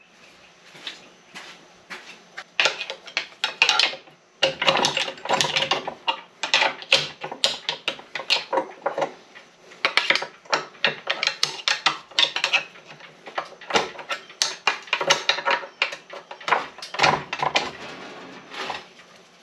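Steel tools, most likely a pry bar, clanking and scraping against an SM465 transmission's shaft and bearing while working the bearing loose: irregular metal clinks and knocks, some in quick runs.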